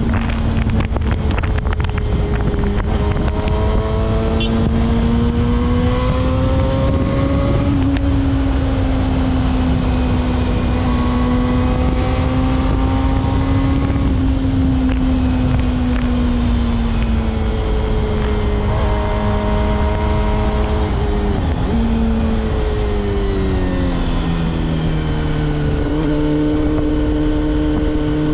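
Honda CBR250RR (MC22) inline-four engine running under way, its pitch rising and falling gently with the throttle; about two-thirds through it dips briefly, then settles lower. Steady wind noise on the microphone underneath.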